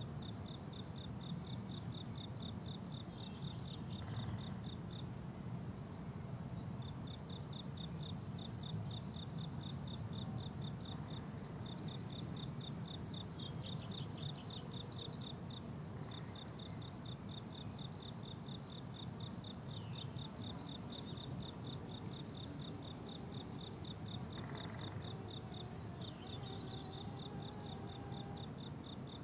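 Crickets chirping: a steady, rhythmic run of high, pulsed chirps with a few short breaks.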